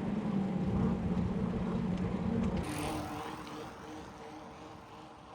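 A steady engine drone. About halfway through it cuts to a different, fainter engine hum that fades away.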